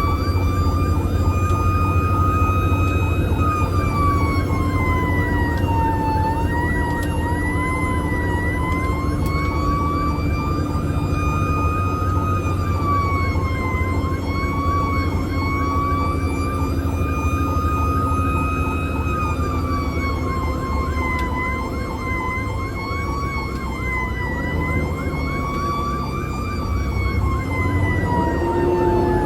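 Emergency vehicle siren on a slow wail, its pitch rising, holding and falling over several seconds at a time, over the steady low drone of an idling engine.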